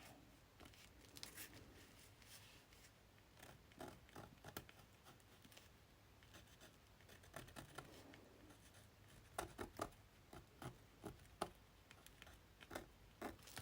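Faint scratching and light taps of hand work on a paper journal page, with little clusters of sharper clicks in the second half.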